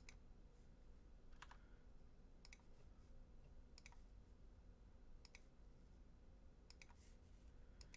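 Faint computer mouse clicks, a handful about a second apart, some in quick pairs, over quiet room noise.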